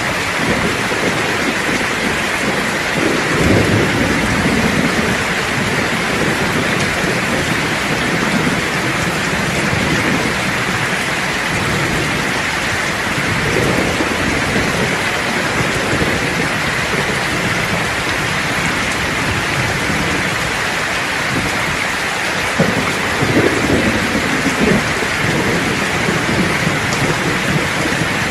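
Steady rain pouring with thunder rumbling low. The thunder swells three times: about three seconds in, around the middle, and near the end.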